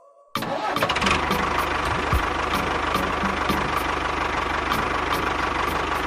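A small engine cuts in abruptly about a third of a second in and runs on at a steady pace with an even, rattly beat.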